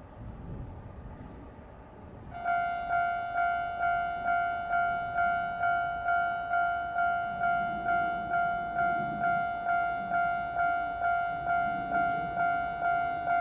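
Japanese railway level-crossing warning bell that starts about two seconds in and rings a steady, repeating electronic ding, about two strikes a second, signalling that a train is approaching. Before it starts there is only a low outdoor rumble.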